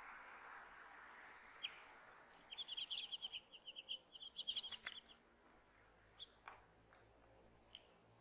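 A small songbird giving a quick run of high, rapid chirps for about two and a half seconds, followed by a few faint clicks.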